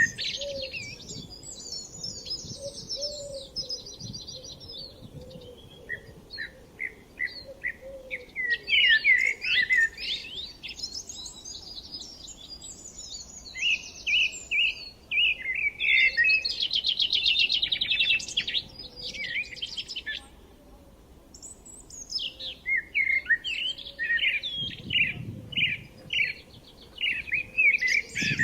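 Several songbirds singing and chirping in overlapping phrases, with quick repeated notes and fast trills and a short lull about two-thirds of the way through.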